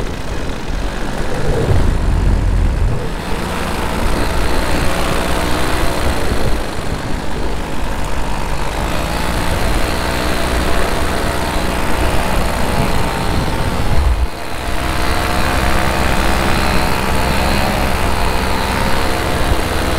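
Minari F1 paramotor engine and propeller running steadily in flight, its pitch wavering slightly. Wind buffets the microphone in gusts about two seconds in and again near fourteen seconds.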